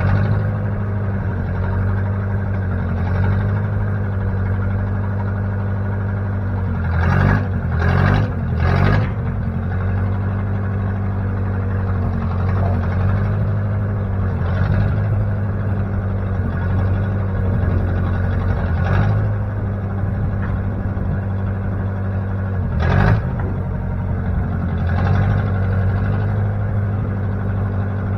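Engine of a 1960 Case 540 backhoe running steadily at idle, with a few short louder bursts about seven to nine seconds in and again near twenty-three seconds.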